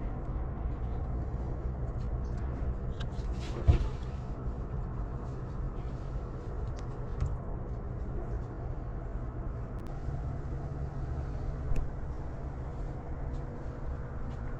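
A steady low rumble with a sharp knock about four seconds in, a smaller one around seven seconds and another near twelve seconds.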